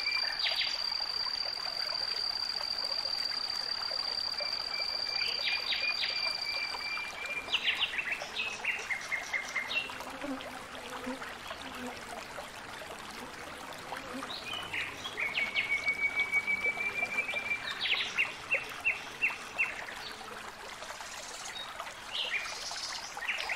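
Outdoor nature ambience. A thin, steady high tone holds for the first several seconds, and short chirping calls and quick series of clicks repeat at intervals over a soft hiss like trickling water.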